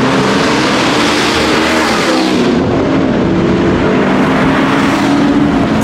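A car engine revving hard and holding high revs, loud and continuous under a dense rushing hiss, its note climbing a little past the middle.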